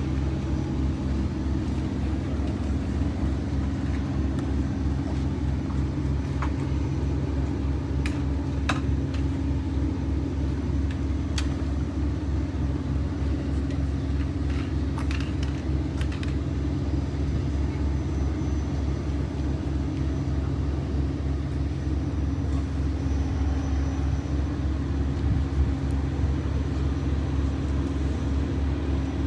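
A steady low engine drone: several fixed humming tones with an even pulsing beat, plus a few faint clicks.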